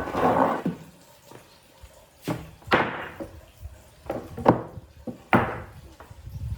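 A series of about six heavy knocks on wood, each ringing briefly, over a low rumble in the workshop.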